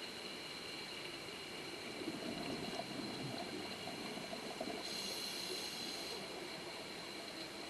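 Scuba diver breathing through a regulator underwater. Exhaled bubbles burble for a couple of seconds, and a short hiss of inhalation follows about five seconds in, over a steady high-pitched tone.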